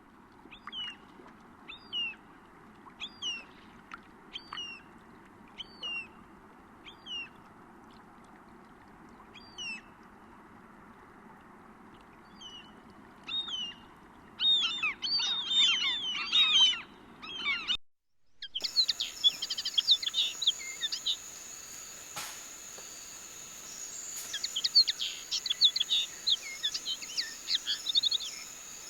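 Birds calling: one bird repeats a short high chirp about once a second, then a burst of busier song comes in. After a short break there is more birdsong over a steady high insect-like buzz.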